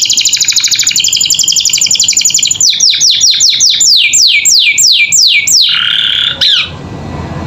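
Domestic canary singing: a fast, rolling trill, then a run of about a dozen downward-sweeping whistled notes at about four a second, and a short lower phrase near the end.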